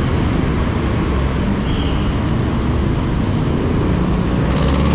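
Steady wind rush on the microphone of a moving bicycle, mixed with the continuous noise of heavy road traffic.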